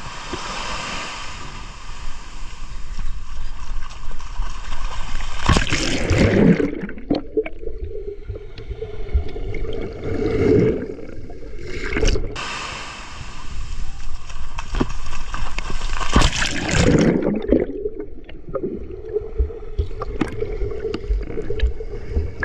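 Sea water sloshing and gurgling close to the microphone as people wade in shallow water, with louder swells about six, eleven and seventeen seconds in.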